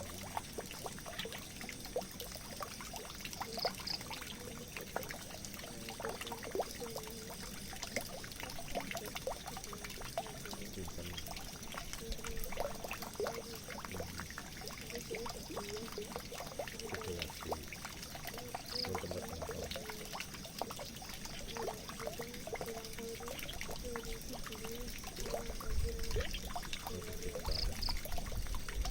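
Water pouring and trickling steadily into a drain, with constant small splashes and gurgles. A few short high chirps come through now and then, and a low rumble rises near the end.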